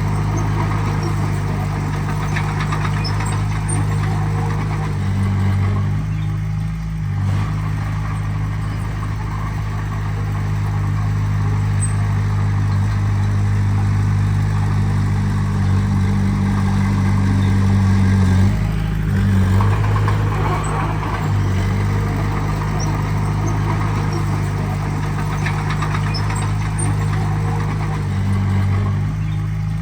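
Heavy-equipment diesel engine running steadily at low speed, its pitch shifting in steps a few times as the load or throttle changes.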